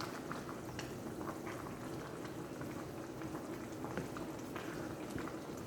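Chicken adobo bubbling in its seasoned sauce as it simmers in the pan, a steady bubbling with small irregular pops.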